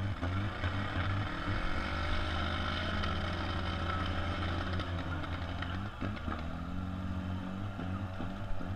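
Demolition derby car engines running and revving, their pitch rising and falling, with a single knock about six seconds in.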